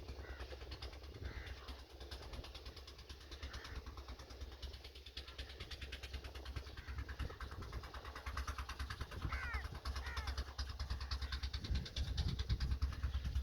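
Birds calling outdoors, a few short chirping calls in the middle, over a steady low rumble.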